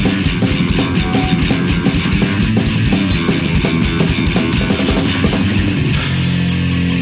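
Live punk rock band playing an instrumental passage: a fast drum beat under distorted electric guitar. About six seconds in the drums stop and the guitar chords ring on alone.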